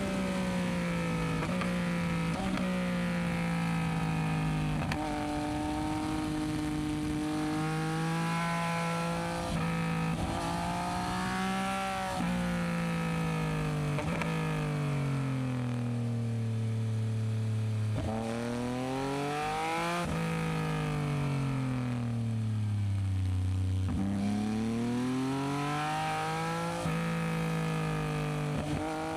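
Yamaha MT-09SP's three-cylinder engine through a Dominator aftermarket exhaust, riding hard: the pitch climbs and drops sharply again and again as it shifts through the gears, with two long falling stretches as it slows on the overrun.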